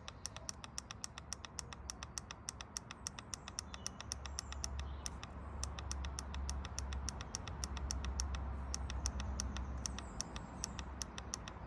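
Rapid, regular clicking, about five clicks a second, from the portable tyre inflator while its pressure setting is being changed. A low hum grows louder from about four seconds in.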